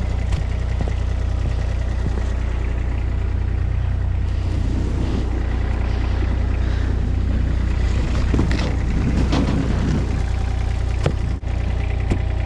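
A heavy vehicle's engine running steadily at low revs, with knocking and clattering over it in the middle.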